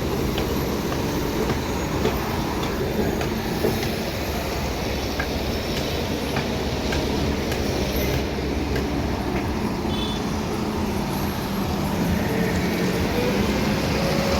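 Steady heavy machinery noise: a continuous low rumble with a hum, and a few scattered clicks and knocks.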